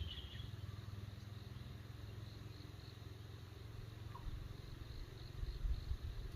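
Faint insect chirping over a steady low rumble, with a short chirp right at the start.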